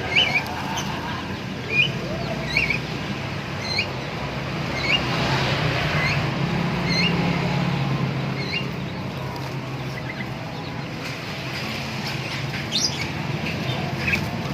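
A small bird, which the uploader takes for a prenjak (a prinia), calling with short rising chirps about once a second, pausing for a few seconds before two more near the end, over a steady low hum.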